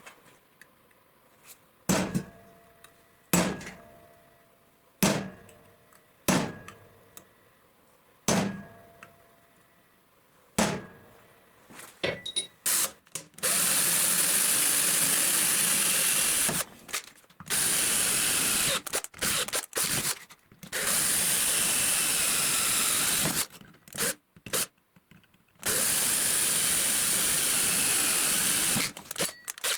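Metal workpiece struck sharply about every second and a half, each strike ringing briefly, then a power tool working steel from a saw blade in long steady runs with several short stops.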